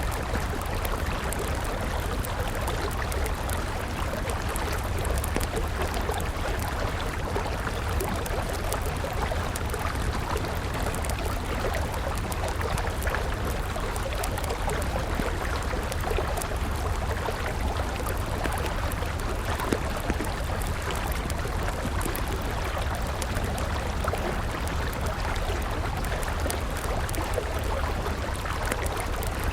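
Steady rushing of river water, with the small pops and crackles of a burning wood campfire scattered through it.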